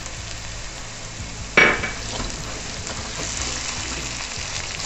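Onions, garlic and curry leaves sizzling in hot oil in a pan as freshly added ginger-garlic paste is stirred in with a metal spoon. One sharp clack of the spoon against the pan about one and a half seconds in.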